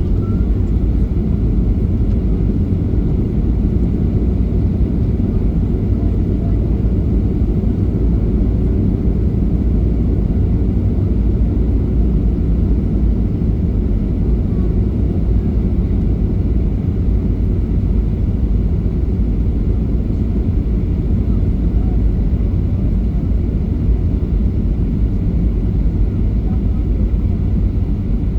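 Steady low rumble of a Boeing 737-800 heard from inside the passenger cabin: engine and airflow noise running evenly, with no surges or impacts.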